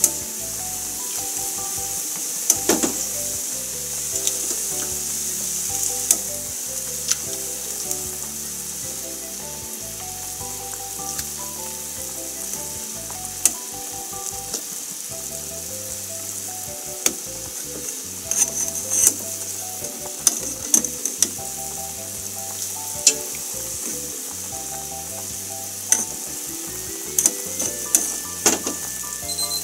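Large pot of fish bones and heads at a rolling boil, bubbling and hissing, with a metal ladle clicking against the pot again and again as the scum is skimmed off. A soft background music melody runs underneath.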